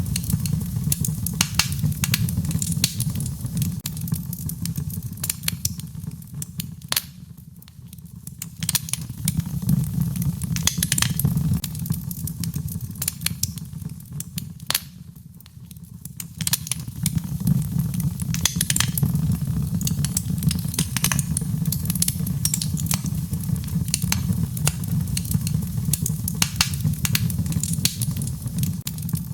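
Wood fire crackling in a fireplace: frequent irregular sharp pops and snaps over a steady low rumble of the flames, which quietens briefly twice.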